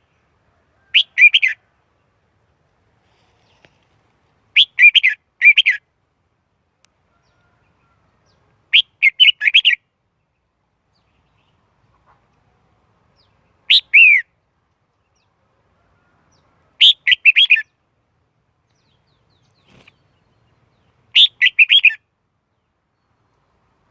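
Red-whiskered bulbul singing short, clear whistled phrases, six in all, each under a second long and spaced about three to four seconds apart, with silence between them.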